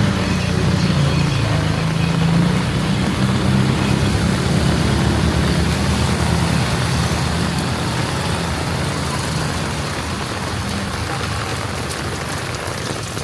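A large road vehicle's engine running close by with a steady low drone, fading away over the last few seconds, over the even hiss of heavy rain.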